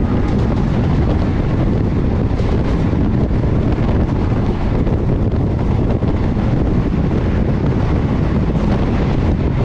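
A passenger train running at speed, heard from on board as a steady rushing noise with heavy wind buffeting the microphone.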